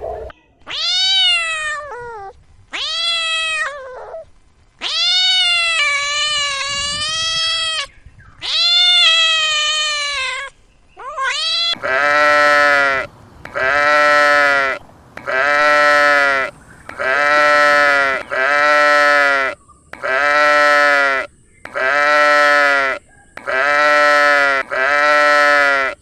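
Animal calls: first four long, wavering cries of uneven length, then from about halfway a steady run of nine short bleats, one every second and a half or so.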